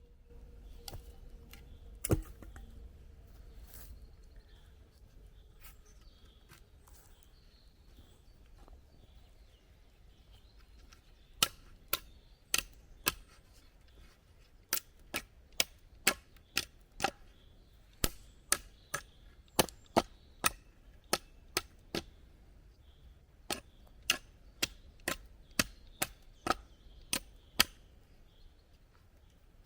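Wood struck repeatedly with a hand tool, as in chopping: a single sharp knock about two seconds in, then a long run of sharp knocks about two a second, pausing briefly once before going on.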